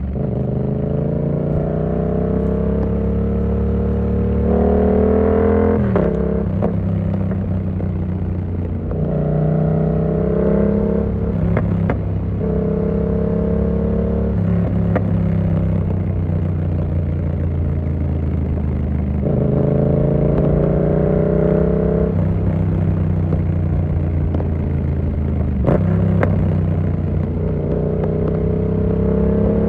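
Yamaha MT-07's parallel-twin engine through an SC Project exhaust, ridden along. Its note climbs steadily in pitch and drops back sharply several times as the rider moves through the gears.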